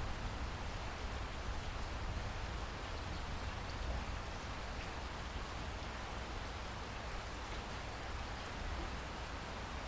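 Steady rainfall, an even hiss of rain with occasional faint drops, over a low rumble.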